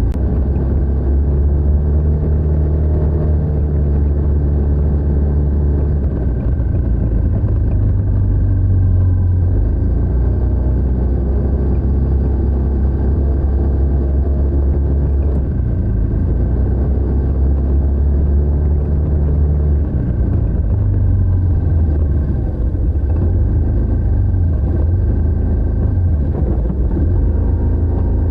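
TVS NTorq 125 scooter's single-cylinder four-stroke engine running through its stock exhaust while being ridden, the engine note shifting several times as the throttle opens and eases.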